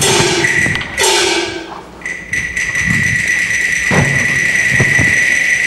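Cantonese opera percussion: gong strikes whose ringing falls in pitch, then a long, steady high ringing tone with a few low drum thumps under it.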